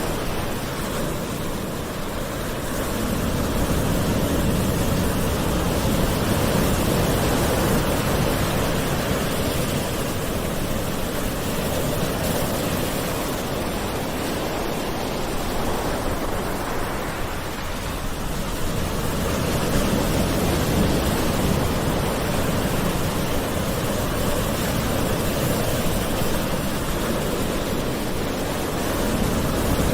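Gentle sea waves washing ashore, a continuous wash of surf that swells and eases slowly every several seconds.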